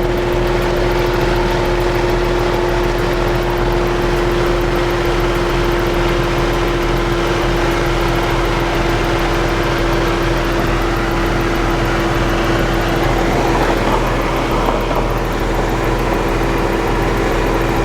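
Car engine running at a steady speed, a constant drone with a steady hum.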